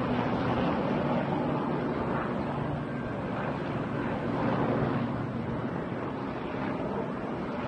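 Helicopter engine and rotors droning steadily overhead, mixed with wind noise on the microphone.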